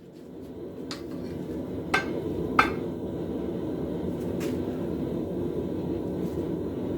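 Steady rushing noise of a forge running, fading in at the start, with three sharp metal clinks about one, two and two and a half seconds in, the last the loudest.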